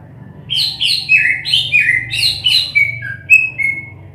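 A caged cucak ijo (green leafbird) singing a fast, loud run of about a dozen clear whistled notes, each sliding downward in pitch. The song starts about half a second in and stops shortly before the end.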